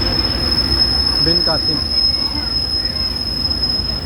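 A train rolling on the tracks with a low rumble and a steady, high-pitched metal-on-metal squeal from its running gear. The squeal cuts off suddenly near the end.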